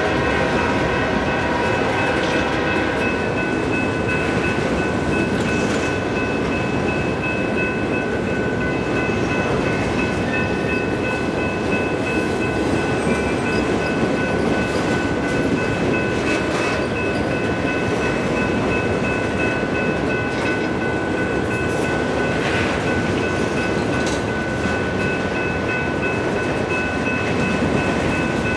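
Freight train of enclosed autorack cars rolling past close by: steady wheel and rail rumble with occasional clanks, and thin high-pitched tones ringing steadily over it. A cluster of tones fades out in the first three seconds.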